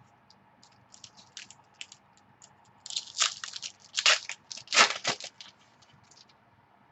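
Baseball cards and their plastic sleeves and wrappers being handled at close range: a run of crinkling, crackling clicks, busiest and loudest between about three and five and a half seconds in.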